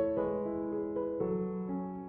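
Background music: a soft piano melody with sustained chords, notes changing every half second or so.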